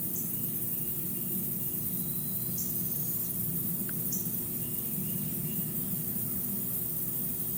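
Outdoor ambience: a steady hiss and low hum, with short high chirps about once a second and a few faint short tones.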